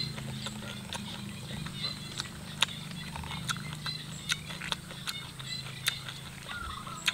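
Close-miked eating sounds of papaya salad with rice noodles: chewing, with irregular sharp clicks and smacks, a couple or so each second.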